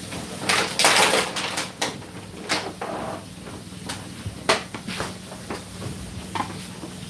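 Kitchen clatter of cupboard doors and dishes being handled: a run of sharp knocks and clicks, busiest about a second in, over a steady low hum.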